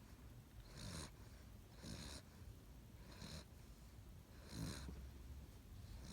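Seven-week-old Great Dane puppy snoring in its sleep: faint, short snoring breaths repeating about once a second.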